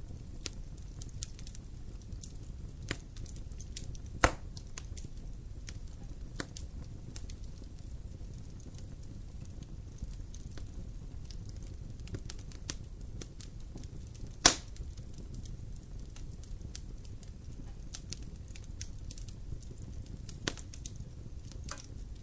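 A fire burning in a fireplace, crackling steadily over a low rumble, with two louder pops, one about four seconds in and one about fourteen seconds in.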